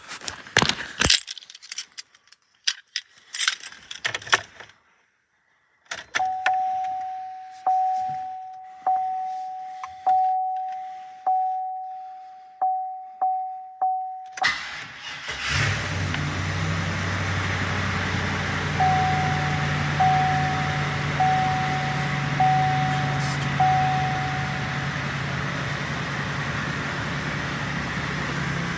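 Keys jangling and clicking, then the truck's warning chime dinging about once a second. About fourteen seconds in, the 2015 GMC Sierra 3500HD's engine starts from cold and settles into a steady idle, with a shorter run of chimes over it.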